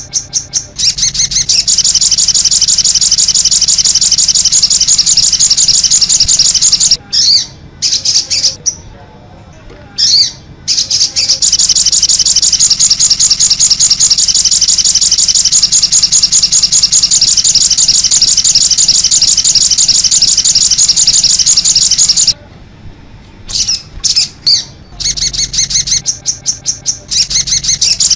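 Sogon bird calling in a long, fast run of high chirps. The run breaks off briefly twice, about a quarter of the way in and again near the end.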